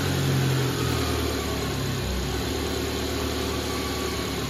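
Suzuki Jimny engine idling steadily, breathing through a newly fitted snorkel, its pitch shifting slightly about two seconds in. It is running on a nearly empty fuel tank and is close to cutting out.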